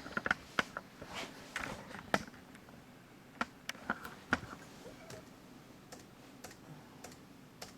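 Irregular clicking and tapping on a computer keyboard and mouse, most frequent in the first few seconds and then spaced out.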